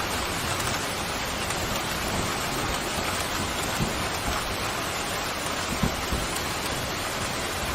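Steady pouring rain, an even hiss with a couple of brief louder taps of drops.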